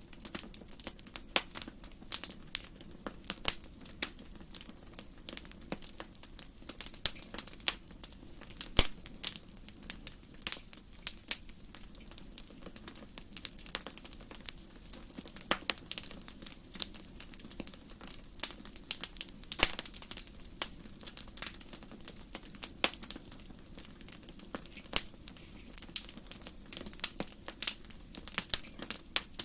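Wood fire burning in a fireplace: many sharp irregular crackles and pops over a low steady rumble of flames.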